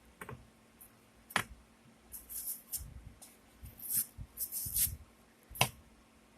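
An apple being cut into slices: crisp crunching as the blade goes through the firm apple, with a few sharp knocks, one about a second and a half in and one near the end.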